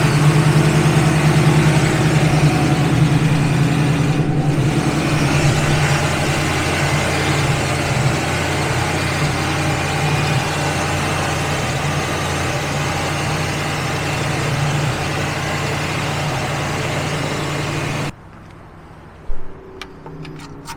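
Old car engine idling, running on for about eighteen seconds and then switched off abruptly. The engine has a rattling noise that the owner feared was the valve train falling apart, and that he later hopes is only a loose courtesy-light bulb under the dash.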